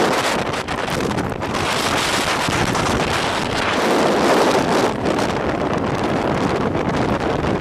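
Strong wind buffeting the microphone, a loud rushing noise that swells and eases in gusts.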